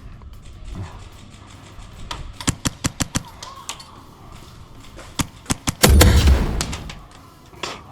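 Airsoft gunfire: a quick string of sharp cracks about two and a half seconds in, and more shots a little past five seconds. These are followed by a loud rushing thump lasting about a second, the loudest sound of the stretch.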